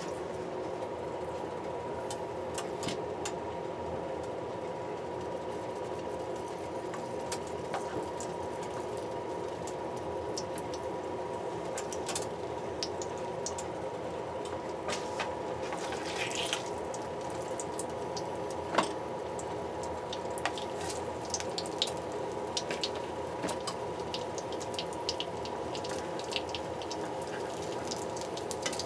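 Cornstarch-coated eggplant slices frying in shallow oil in a nonstick pan: a steady sizzle with scattered crackles and pops, over a steady hum. One sharp click stands out about two-thirds of the way through.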